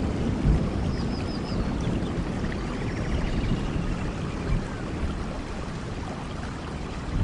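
Steady rainfall, a dense even hiss with a strong low rumble underneath. A few faint, short high chirps come about a second in.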